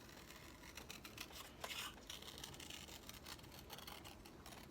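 Faint scissors cutting paper in short, slow, irregular snips, with light paper rustling.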